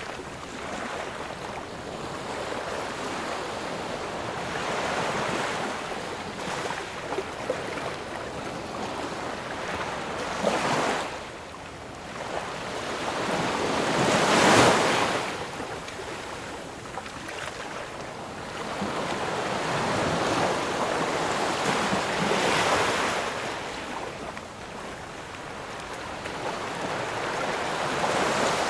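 Ocean waves breaking and washing in, a steady surf hiss that swells and ebbs with each wave. The strongest break comes about halfway through.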